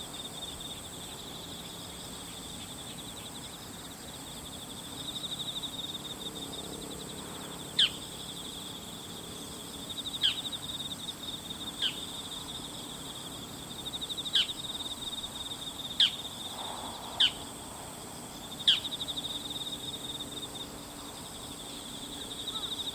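Bull-headed shrike giving seven short, sharp calls, each sweeping steeply downward in pitch, spaced one to two and a half seconds apart. These are ordinary calls, not the shrike's rattling high-pitched autumn territorial call. Behind them is a steady chorus of trilling insects.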